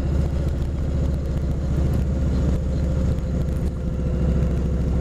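2005 Kawasaki Vulcan 2000's V-twin engine running steadily at cruising speed, under a steady rush of wind and road noise.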